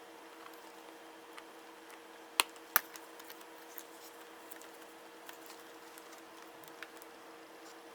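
Small clicks and taps of laptop parts and tools being handled during disassembly, with two sharper clicks close together about two and a half seconds in. A faint steady hum lies underneath.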